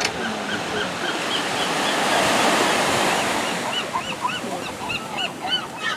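Surf washing up the shore, swelling to its loudest about two seconds in, over a rapid run of short, repeated gull calls, about three a second.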